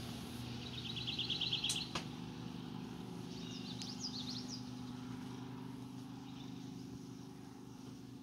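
Birds singing outside an open window: a rapid high trill of about ten notes about a second in, then a few quick slurred chirps a few seconds later, over a steady low hum.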